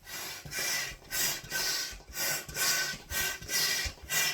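Hands rubbing over an inflated 16-inch latex balloon, a squeaky rubbing in about nine even strokes, roughly two a second.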